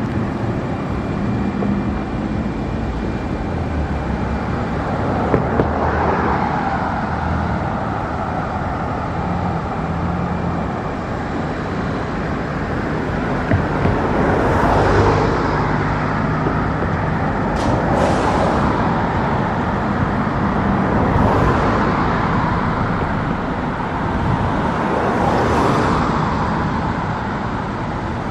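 Road traffic on the bridge deck: a steady rush of passing cars with several vehicles swelling past one after another.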